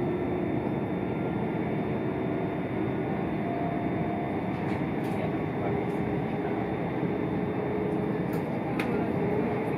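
Inside a c2c electric passenger train running at speed: steady rumble of the wheels on the track, with a few light clicks about five seconds in and again near the end.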